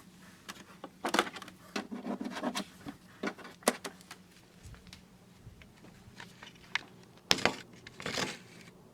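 Scattered clicks, knocks and short rustles of hands handling and setting up a battery-powered Halloween animatronic, over a faint steady hum.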